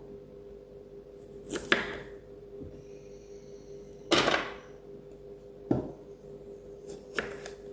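Kitchen knife cutting the ends off a lotus root on a chopping board: about four sharp cuts, the loudest a little past the middle.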